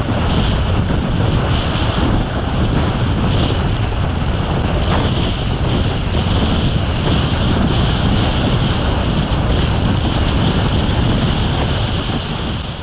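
Steady wind buffeting the microphone over the rush of water around a sailing boat.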